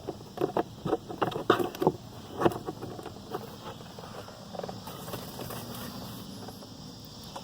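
Clicks and light knocks of a car's plastic glove box and its screws being handled and refitted, a quick run of them in the first two and a half seconds, then only faint handling.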